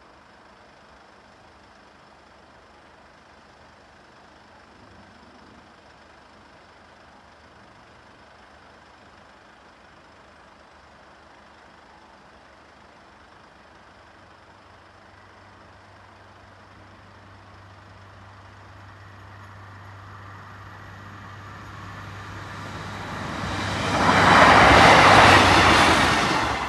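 A Northern Class 155 diesel multiple unit approaches and passes over the level crossing. It grows steadily louder over the last ten seconds, with a steady low hum under the rising rumble, and is loudest about two seconds before the end.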